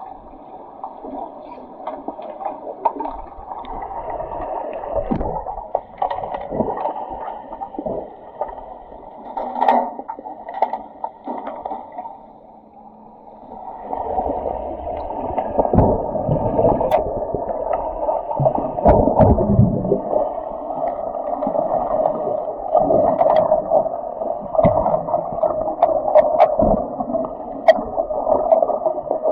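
Muffled rushing and gurgling of water and swimmers during an underwater hockey game, heard as if through water, with scattered sharp clicks and knocks. It dips briefly about twelve seconds in, then grows louder and busier.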